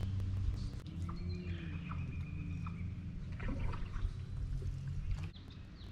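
Water trickling and lapping around a canoe, with small knocks from the boat and a steady low rumble of wind on the microphone.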